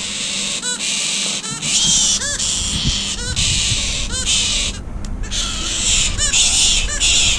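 Galah screeching, short harsh calls repeated about every two-thirds of a second, over a steady high hiss.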